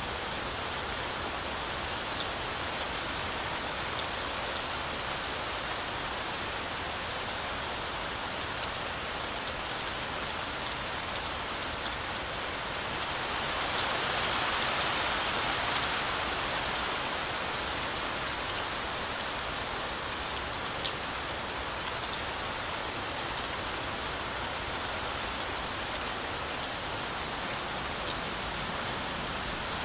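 Heavy rain falling steadily through a forest canopy, a continuous hiss of drops with a few sharper drip ticks. About halfway through, the rain swells louder for a few seconds, then settles back.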